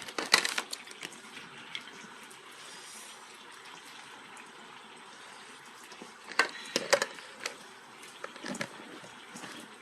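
Hot oil sizzling steadily with chicken deep-frying in it, with a few sharp clatters just after the start and again about six to seven seconds in.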